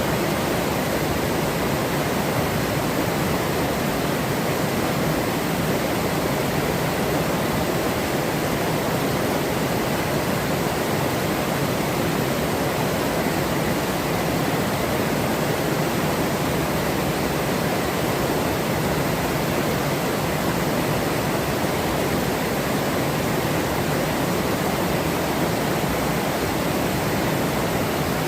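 Forest river flowing: a steady, unbroken rush of running water.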